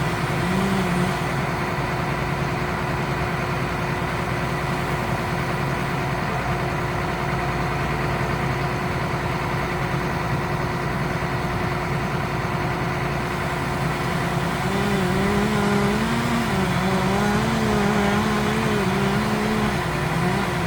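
A large engine running steadily at a constant speed. About two-thirds of the way in, a second pitched sound that wavers up and down joins it.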